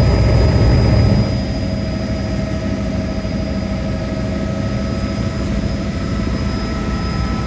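Helicopter in flight: a steady, loud rumble of engine and rotor with a constant whine on top, easing slightly in level about a second in.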